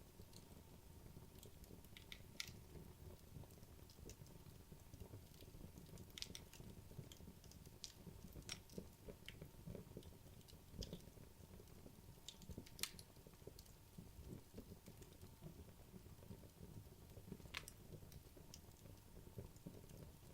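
Burning wood logs crackling quietly in a fireplace: irregular sharp pops and snaps over a soft low rustle of flame. The loudest pops come about halfway through and again near the end.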